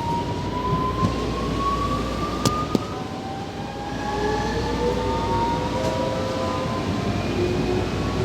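Alstom series 8900 electric train's traction motors whining in several thin tones that slowly rise in pitch as it gathers speed, over the steady rumble of the carriage running on the track. Two sharp clicks come about two and a half seconds in.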